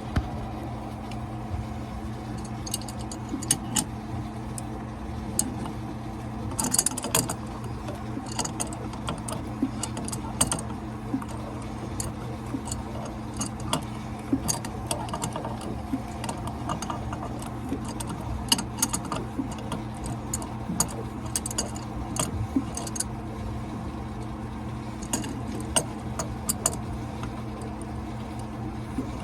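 Irregular metallic clinks and taps of hand tools on the engine's impeller pump, over a steady low machinery hum.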